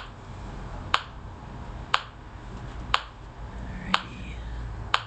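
Metronome clicking a steady beat, one click a second (about 60 beats per minute), setting the tempo before the play-along.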